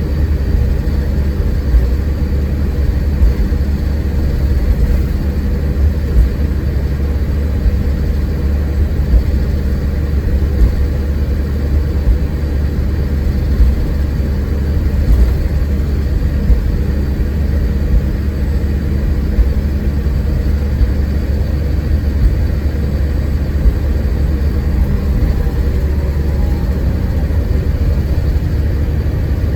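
Scania K410 coach running at a steady pace, heard from inside the cabin: a continuous low engine and road rumble with small irregular jolts.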